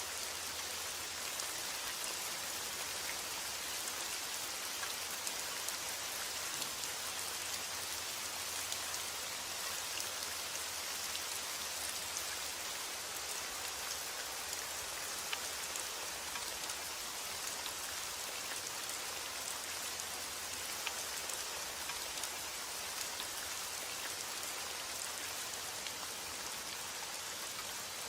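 Steady rain falling on a surface, an even hiss with scattered small drop ticks and no thunder.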